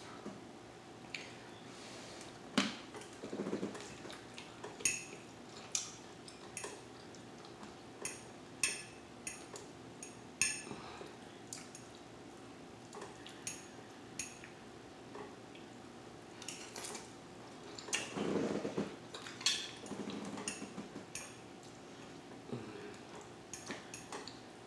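Metal cutlery clinking and scraping against a dinner plate, in scattered single clicks every second or so, with a few duller, softer sounds about three-quarters of the way through. A faint steady hum runs underneath.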